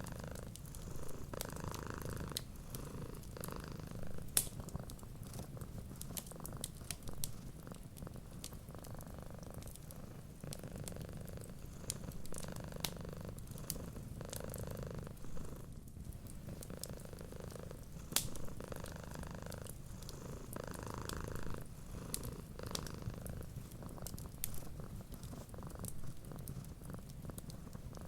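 A cat purring steadily, the purr swelling and fading with each breath about once a second, over a wood fire crackling with scattered sharp pops.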